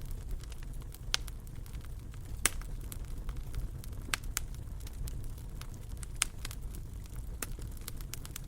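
Wood fire in a fireplace burning, with a low steady rumble and irregular sharp crackles and pops, about six loud ones.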